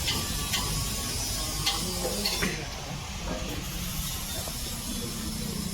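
Workshop background: a steady low rumble with a few scattered sharp metallic clicks or knocks.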